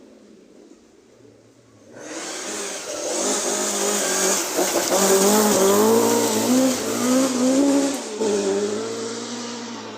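A rally car speeding past on a forest stage. It comes in suddenly about two seconds in, is loudest midway with the engine note rising and falling as the revs change, and fades away near the end.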